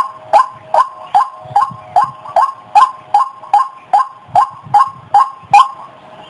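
White-breasted waterhen calling in a fast, even series of short, harsh notes, about two and a half a second; the series breaks off shortly before the end.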